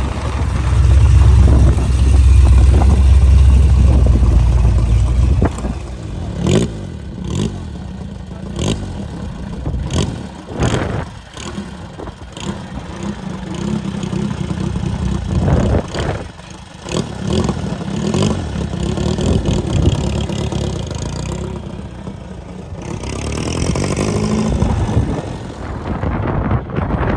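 Car engines running and driving by, with a loud low rumble for the first five seconds, scattered clatter after it, and an engine revving up near the end.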